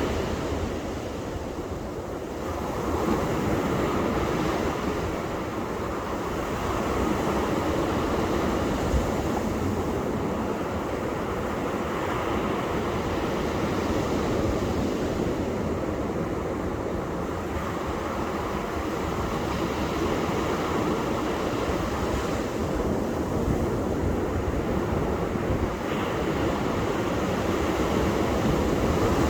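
Ocean surf washing onto a beach: a continuous rushing of breaking waves that swells and eases every several seconds.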